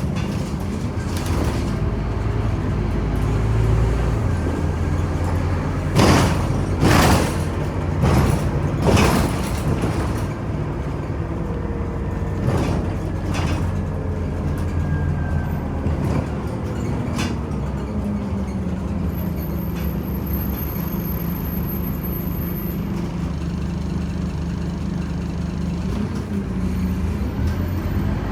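Scania OmniCity city bus heard from inside the cabin: steady engine drone, with a cluster of four or five loud knocks or rattles between about six and ten seconds in.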